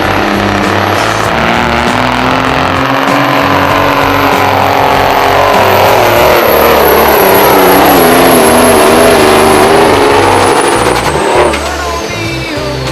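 Diesel truck engine running hard at full throttle on a sled pull, with a high turbo whistle above it. The engine note climbs and wavers, then about eleven seconds in the throttle comes off and the whistle falls away.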